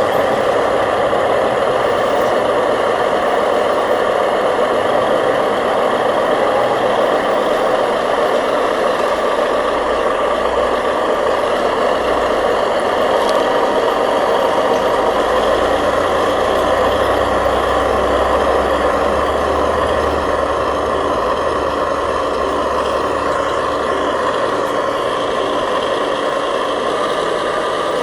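Radio-controlled scale construction machinery working: a steady mechanical drone of small drive motors and gears. A low rumble joins in from about ten seconds in and fades near the end.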